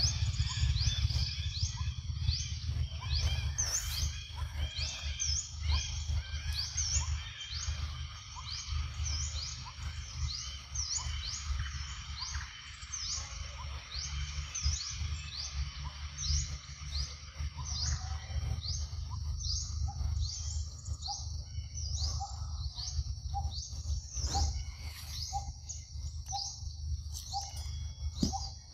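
Forest birds calling: a short, high, rising chirp repeated about twice a second, joined about two-thirds of the way in by a lower short note about once a second, over a steady low rumble.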